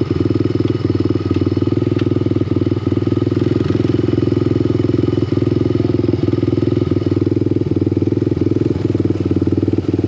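Small off-road vehicle engine running at a steady low speed, without revving.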